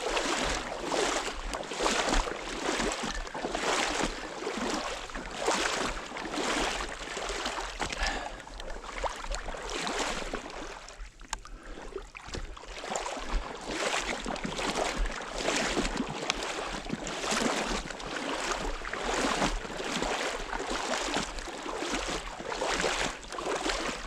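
Water sloshing and swishing in a steady rhythm, about one stroke a second, from someone moving through a duck pond, with a short lull about eleven seconds in.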